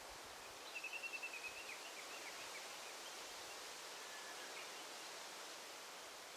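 Forest ambience: a steady hiss of rustling leaves, with a bird calling in a quick run of high notes about a second in, then a few fainter calls.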